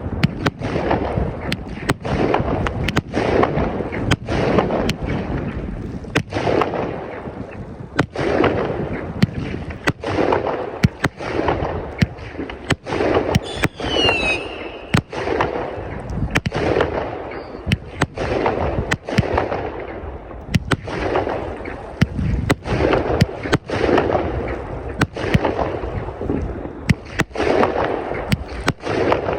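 Consumer fireworks going off in a long, rapid series: sharp bangs about once a second with a rushing noise swelling between them, and a few falling whistles about halfway through.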